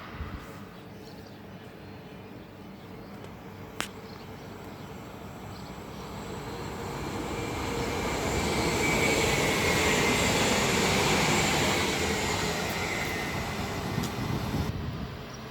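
A train passing through the station, growing louder to a peak about ten seconds in and then fading, with a high whine that sinks slightly in pitch as it goes by.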